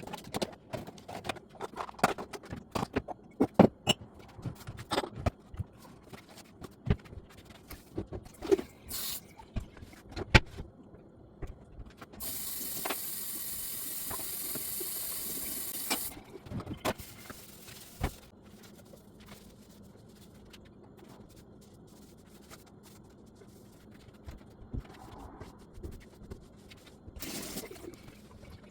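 Kitchen handling sounds: a run of sharp knocks and clicks from utensils and containers being moved, then a steady hiss lasting about four seconds, followed by a few quieter knocks.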